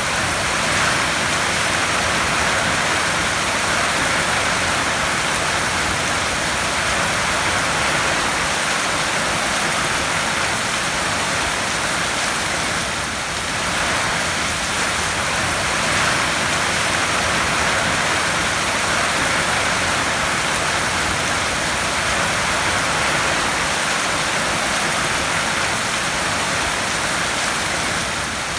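Heavy rain falling on a tin roof: a dense, steady hiss of drops on metal that swells and eases only slightly.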